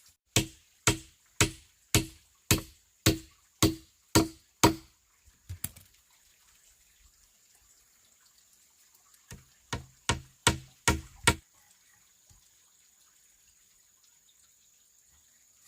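Bamboo being struck hard, about two blows a second, each with a short hollow ring. After a pause a quicker run of about six blows follows.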